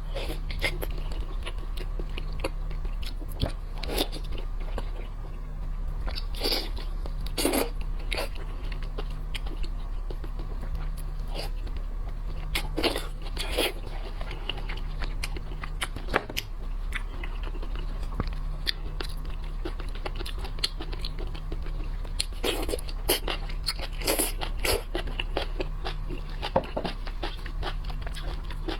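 Close-up eating sounds of a person chewing and biting, with irregular crunches and sharp cracks scattered throughout, over a steady low hum.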